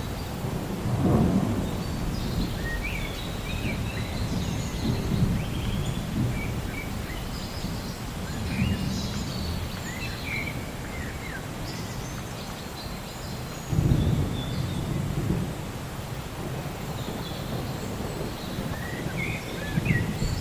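Steady rain with low rolls of thunder, one about a second in and a stronger one around fourteen seconds, while birds chirp intermittently.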